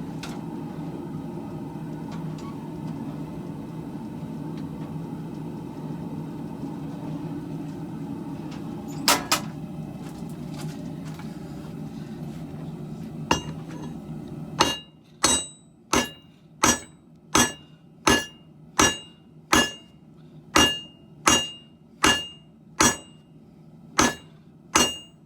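A steady low rumble with a few scattered hammer strikes; about two thirds of the way in the rumble stops and a hammer starts beating steel on an anvil in an even rhythm, about one and a half blows a second, each blow ringing.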